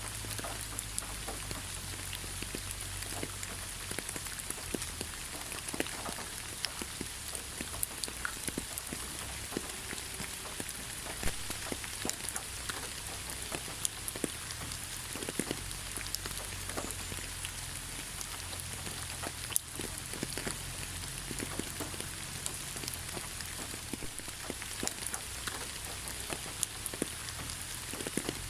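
Steady rain falling in a forest, a continuous hiss with many separate drops ticking and pattering on leaves and surfaces, over a low rumble.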